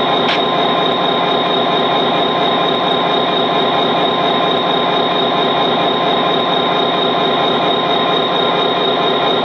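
Steady, unbroken train running sound with a constant high-pitched tone over it.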